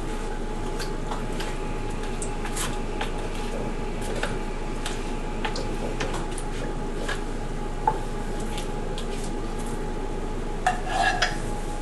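A utensil clinking and scraping against a pan as chicken wings are tossed in sauce: scattered light clicks, with a few louder clinks near the end, over a steady low background noise.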